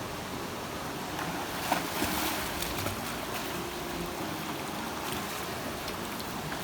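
Steady rushing noise of river water, with a few faint clicks about two seconds in.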